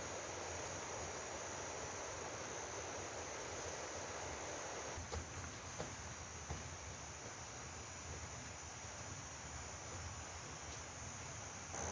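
Crickets trilling in a steady, high chorus over a continuous even hiss, with a few faint clicks about halfway through.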